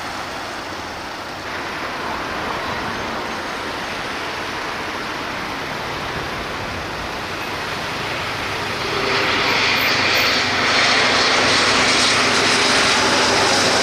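Jet aircraft's engines running, a steady rush with a faint whine that grows louder about nine seconds in.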